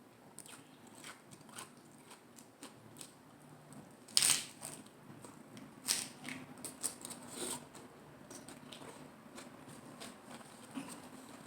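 Close-miked eating of crunchy lettuce-wrapped salad rolls: small crackly chewing sounds, with a loud crunch about four seconds in and a run of crunches a couple of seconds later.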